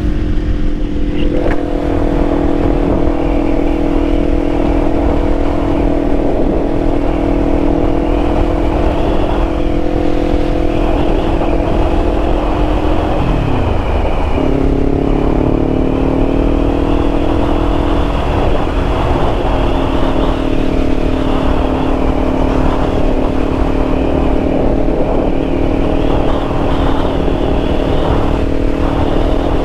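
2024 Kawasaki Ninja 500's parallel-twin engine running steadily at cruising revs, under wind noise. About thirteen seconds in, the engine note falls away and comes back at lower revs, as at a gear change.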